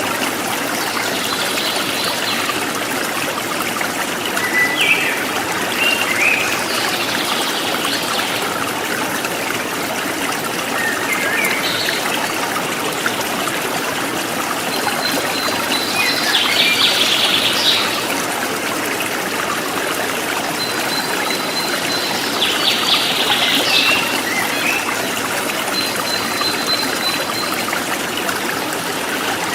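Small river flowing steadily over stones, with birds chirping and calling now and then over the water.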